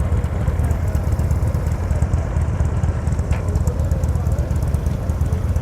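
Motorcycle engine running with a steady, heavy low rumble, faint voices underneath.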